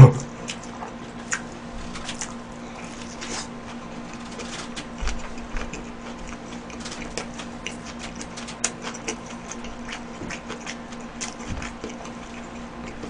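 Close-miked chewing of a Lotteria shrimp burger: irregular small wet clicks and smacks from the mouth as the bite is worked, over a faint steady hum.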